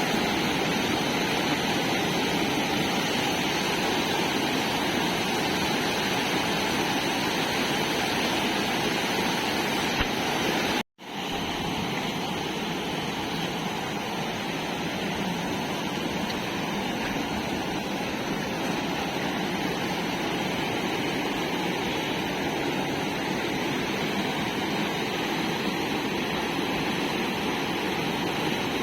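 Fast floodwater of a swollen river rushing steadily, a loud, even roar of water. It cuts out for a moment about eleven seconds in, then carries on as before.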